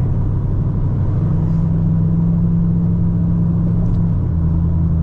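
Straight-piped 2010 Camaro SS 6.2-litre V8 exhaust, running steadily with a deep low rumble; its note shifts slightly about four seconds in.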